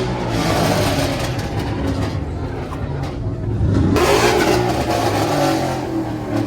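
A car engine revving, rising in pitch about three to four seconds in and louder for a moment after, over background crowd voices.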